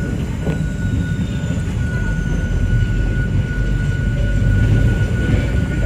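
Hakone Tozan Railway Moha 1 electric railcar running, heard from inside the car: a steady low rumble of wheels and running gear, with a thin high whine held throughout.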